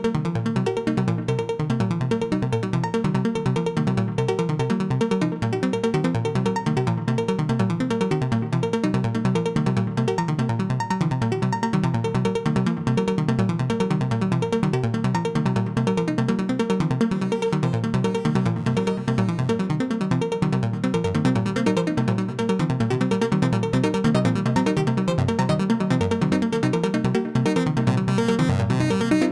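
Eurorack modular synthesizer patch: a Braids-style macro oscillator plays a rapid, continuous sequence of short enveloped notes at shifting pitches, gated through a VCA or a passive low pass gate and run through a Mimeophon delay.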